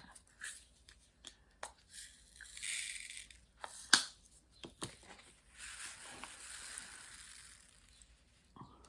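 Plastic crinkling and rustling in two stretches, with scattered light clicks and one sharper click near the middle, as diamond painting materials are handled.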